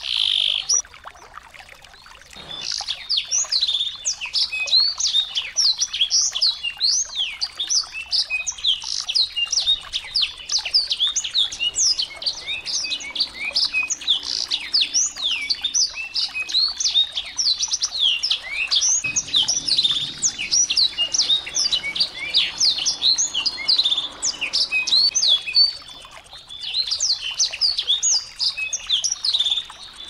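Small birds chirping in a dense, rapid stream of short, high, sweeping notes. The stream pauses briefly about two seconds in and again near the end.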